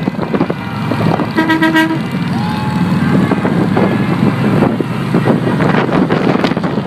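Many motorcycle engines rumbling together in a mass ride, with a vehicle horn tooting briefly about a second and a half in.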